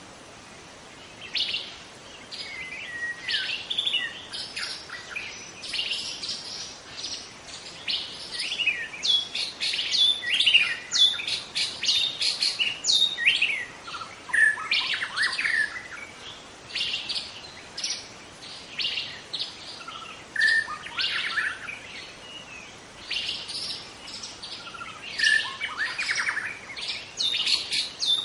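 Young white-rumped shama (murai batu) singing: a long, dense run of short, rapid, varied whistles and chirps with hardly a pause.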